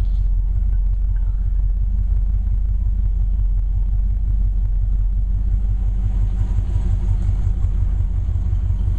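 1965 Ford Falcon's 289 V8 with two-barrel carburettor idling steadily, a low even running sound.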